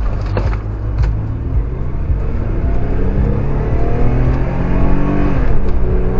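A car engine accelerating, its pitch climbing steadily over several seconds, with a couple of brief knocks about a second in.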